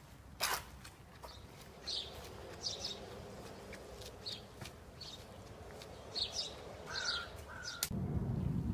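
Birds calling in an outdoor garden: short high calls every second or so over faint background noise. There is a sharp knock about half a second in, and a louder low rumble comes in near the end.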